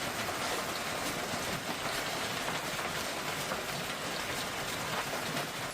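Heavy thunderstorm downpour: a dense, steady hiss of rain with many small ticks of drops striking surfaces.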